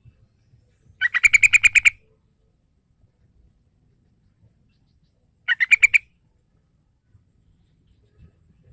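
Yellow-vented bulbul (trucukan) calling: a fast run of about ten repeated notes about a second in, then a shorter run of about six notes around six seconds in.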